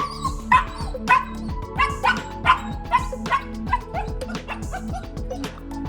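Goldendoodle puppy whining and yipping in short high calls, about two a second, over background music.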